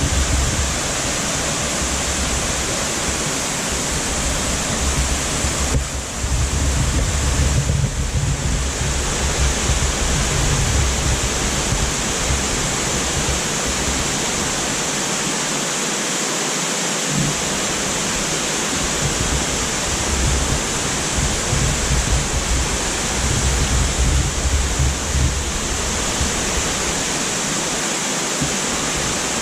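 Waterfall crashing into a pool below, a steady rush of falling water, with a low rumble that comes and goes.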